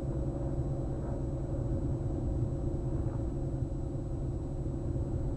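Diamond DA42 NG's twin Austro AE300 turbodiesel engines running at low power, a steady even drone.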